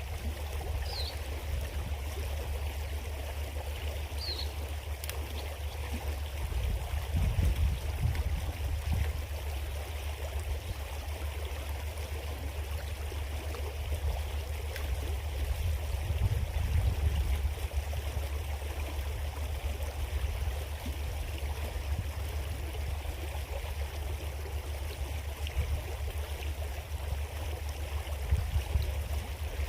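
Small creek flowing and babbling, a steady rushing of water. Under it runs a low rumble that swells a few times.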